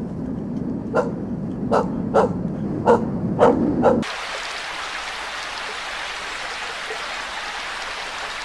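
An animal giving short, sharp barks, about six of them over roughly four seconds. At about four seconds the sound cuts off suddenly and a steady hiss takes over.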